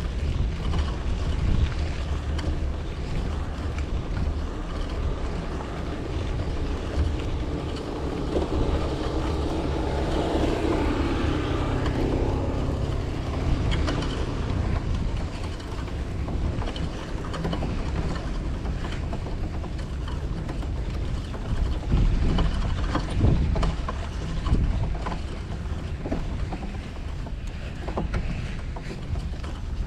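City street traffic heard from a moving bicycle, with a steady low wind rumble on the microphone. A vehicle passes close, swelling and fading about ten to thirteen seconds in.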